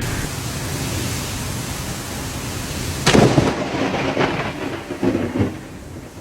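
Heavy rain hissing steadily during the storm, with a sudden loud crack of thunder about three seconds in and further rumbling bursts after it.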